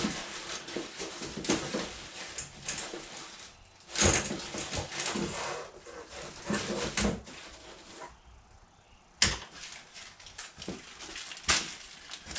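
Workshop parts being rummaged through and handled: scattered knocks, clatter and rustling, with sharp knocks about four seconds in and again about nine seconds in.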